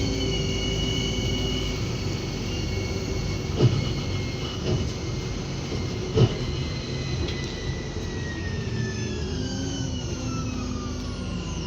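Electric train running, with steady rumble and a held whine, two sharp knocks, and a whine that falls steadily in pitch near the end as it slows.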